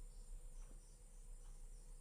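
Near silence: a faint steady low hum and hiss of background noise.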